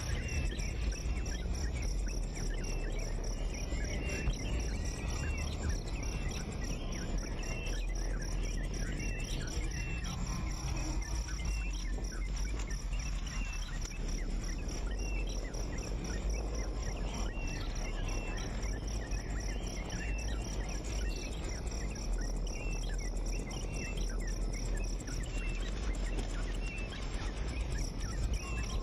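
Steady high-pitched insect drone with short bird chirps repeating every second or so, over a continuous low rumble.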